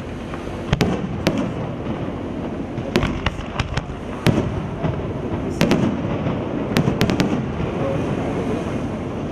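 Aerial firework shells bursting overhead with sharp bangs at irregular intervals, several in quick succession around the middle.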